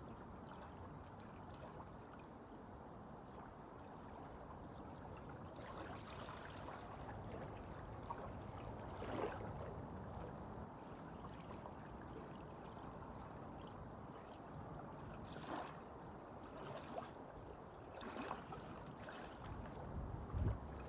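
Small waves lapping and splashing over a steady wash of wind. Several short louder splashes stand out, the strongest about nine seconds in and just before the end.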